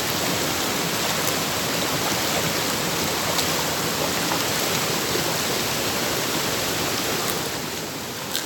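Steady, even rush of a waterfall, dipping slightly in level near the end.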